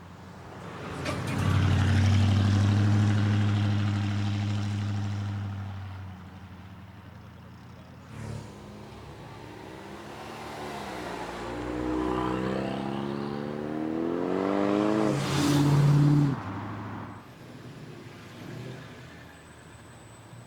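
Car exhausts as cars pull away. One engine comes in loud about a second in, holds a steady pitch and then fades. From about ten seconds a second engine accelerates with its pitch climbing, is loudest near sixteen seconds and drops away suddenly.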